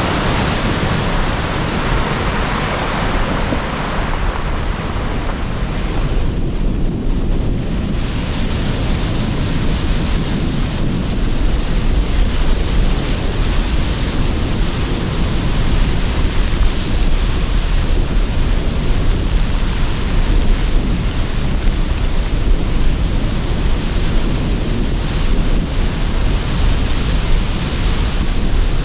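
Sea surf breaking and washing in under strong, gusting wind, a dense rushing roar with wind buffeting the microphone.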